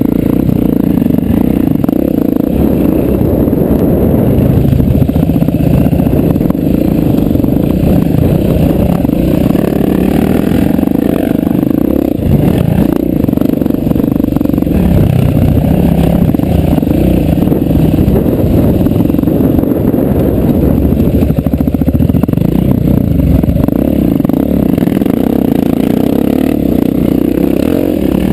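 Single-cylinder dirt-bike engine running under throttle, heard close up from the bike being ridden on a dirt track. Its loud engine note rises and falls continuously with the rider's throttle.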